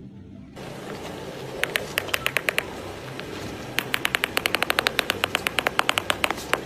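A rapid series of sharp clicks over a steady hiss: a short run about two seconds in, then a dense run of about five or six clicks a second from about four seconds in.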